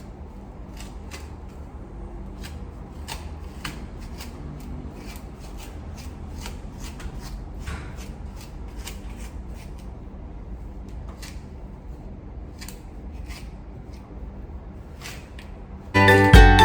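Soft, irregular clicks and rustles of hands working with hair-care tools in wet hair. Music starts abruptly near the end.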